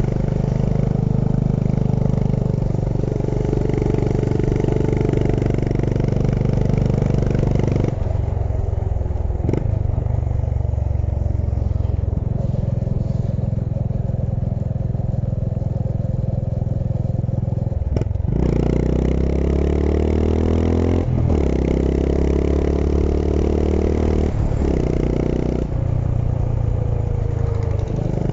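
Honda H'ness CB350's single-cylinder engine and exhaust running under way, holding steady engine speeds for the first part. From about two-thirds of the way in it revs up repeatedly, with brief breaks between the rises as it shifts up through the gears.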